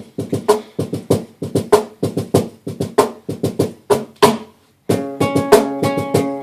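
Acoustic guitar being picked: short, damped notes in a steady rhythm, then about five seconds in the notes start ringing out and sustaining.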